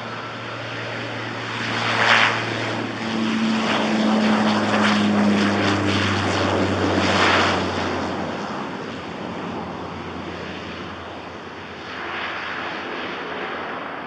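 De Havilland Dash 8-400 turboprop departing, a steady propeller drone with a low hum that swells through the middle and then eases off.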